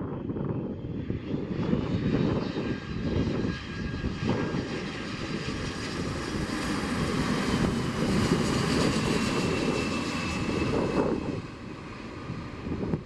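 Airliner's engines passing by: a rushing engine sound with a high whine that swells to a peak around the middle and fades toward the end.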